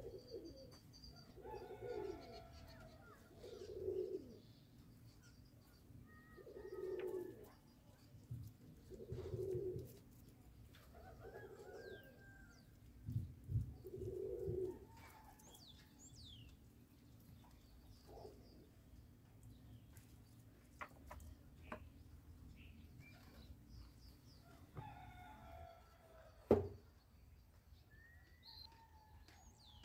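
A bird cooing in short low calls every two or three seconds, mostly in the first half, with faint higher chirps of other birds. Near the end a single sharp clink.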